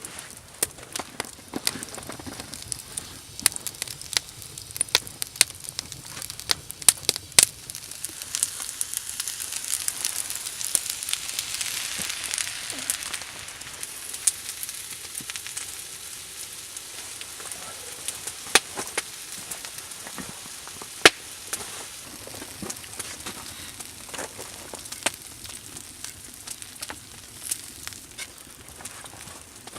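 Campfire crackling, with irregular sharp pops of burning wood over a steady hiss. The hiss swells for a few seconds around the middle and then settles back.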